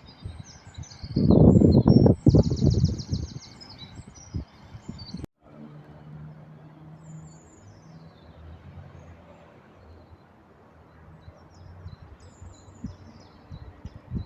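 Small birds chirping, with a short rapid trill about two seconds in, over loud low rumbling buffets in the first few seconds. After a sudden break, a steady low hum with several pitches, with faint chirps above it.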